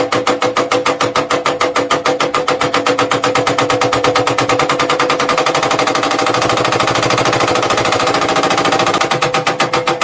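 A power tool hammering rapidly and evenly, about ten blows a second, with a steady ringing tone under the strokes.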